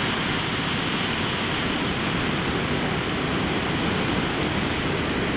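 Steady rushing noise of EH500 electric freight trains: one locomotive standing with its equipment running while a second freight train approaches.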